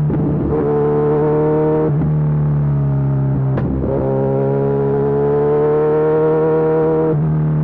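Kawasaki Z1000SX inline-four engine running through a Lextek full exhaust under way, its note rising slowly as it pulls. The note breaks and changes pitch abruptly about four times, near the start, about two seconds in, around the middle and near the end.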